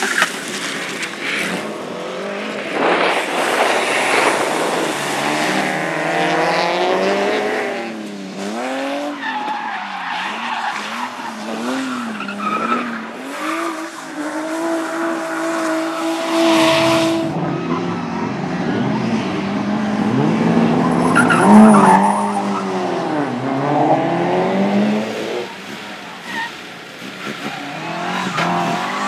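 Amateur rally cars racing hard, engines revving up and dropping back again and again through gear changes and corners, with tyres skidding. For a few seconds past the middle one engine is held at steady high revs.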